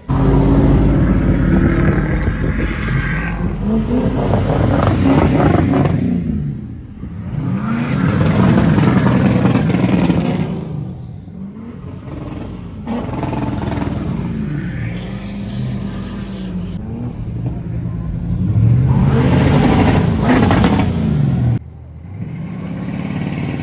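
Car engine revved hard again and again, its pitch climbing and falling in long sweeps, then cutting off sharply near the end.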